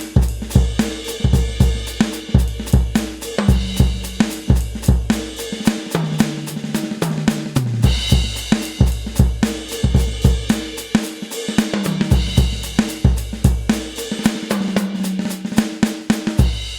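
KAT Percussion KT4 electronic drum kit played through its sound module: a steady groove of kick, snare, hi-hat and cymbals, with two passages of pitched tom hits.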